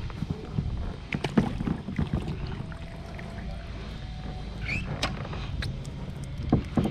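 Scattered knocks and light clatter of handling in a fishing kayak, over a steady low rumble.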